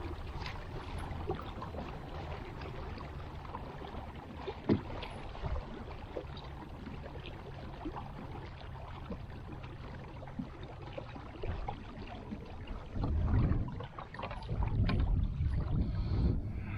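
Kayak on the water: a steady wash of water against the hull with a faint low hum and small knocks, and louder low rumbles in the last few seconds.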